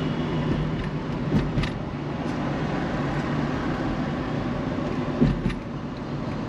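Road traffic noise during a car drive: a steady low engine and road hum, with a few short knocks about a second and a half in and again near the end.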